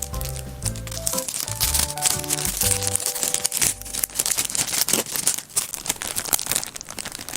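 Packaging being handled for an order: dense crinkling and crackling, over light background music whose notes drop out about three seconds in.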